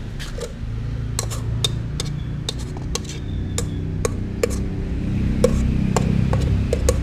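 Cats eating from dishes: irregular sharp clicks and clinks, two or three a second, over a low rumble.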